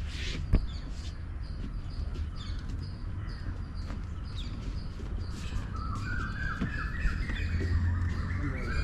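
Several birds chirping and calling, with many short high chirps throughout. From about six seconds in, one bird gives a run of repeated notes that climb step by step in pitch. A low rumble runs underneath.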